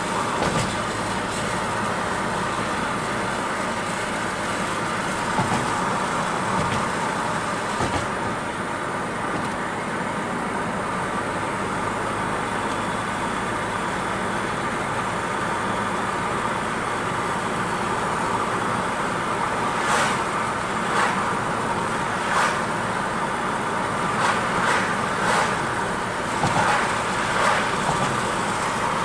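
Car driving, with steady road and engine noise and a run of short knocks or clicks in the last few seconds.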